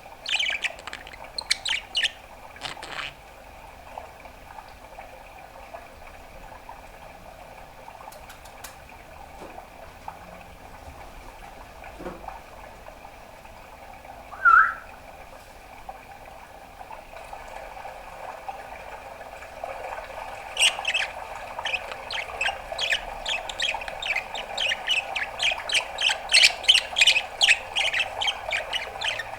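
A budgerigar calling: a few short chirps at first, one loud single call near the middle, then, from about two-thirds in, a fast unbroken run of chirps and clicks.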